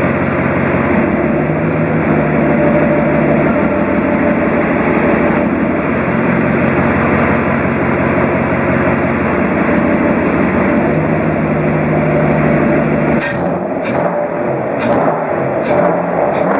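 Freshly overhauled Mercedes-Benz M119 V8 of an R129 SL500 running on its first start after the rebuild, a steady engine note that shifts slightly in pitch a few times. About 13 seconds in the engine note drops away and a few sharp knocks follow.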